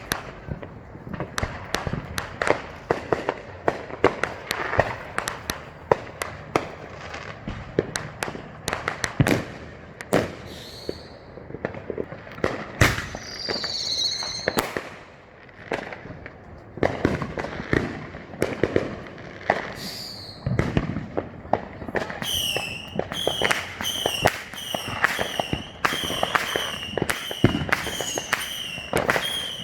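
Consumer fireworks going off all around: a dense run of bangs and crackling reports. A few high whistles rise and fall partway through, and near the end a rapid high chirping whistle repeats about three times a second over the continuing bangs.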